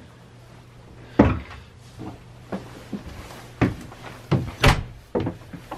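A string of about seven knocks and thumps, like cabin doors or hatches being handled, over a faint steady low hum. The loudest knock comes about a second in and another strong one just before the end.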